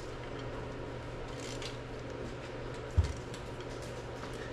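Steady low hum of workshop room tone, with faint scattered ticks and one dull low thump about three seconds in.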